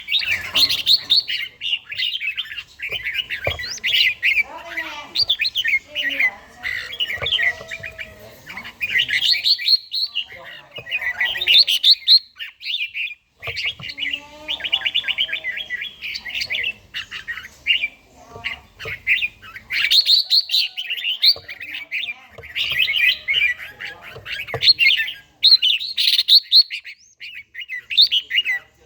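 Red-whiskered bulbul singing: bursts of quick, bright chirping phrases with short pauses between them.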